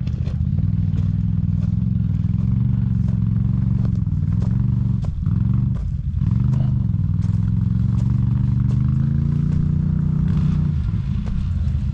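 ATV (quad bike) engine running under load, its pitch rising and falling with the throttle: eased off briefly twice around five and six seconds in, then revving up near the end before dropping back. Scattered clatters and scrapes run through it.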